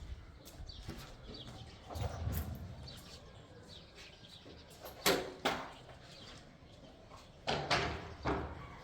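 Sharp knocks: two about five seconds in, half a second apart, then three more near the end, over low background noise.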